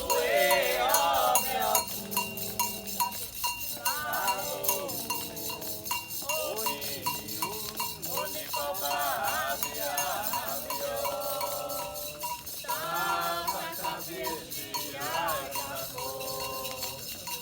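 A Candomblé song: voices singing a wavering chant over a metal bell, likely an agogô, struck in a steady beat about two to three times a second, with a fast, even rattle of a shaker on top.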